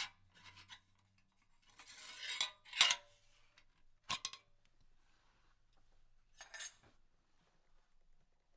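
Metal tools and parts being handled, clinking and clattering in short bursts. The loudest cluster comes about two to three seconds in, with more clinks near four seconds and near seven.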